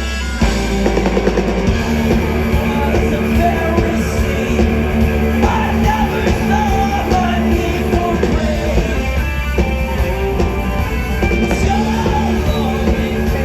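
Rock band playing live and loud: distorted electric guitars, bass and drum kit, with a voice singing over it.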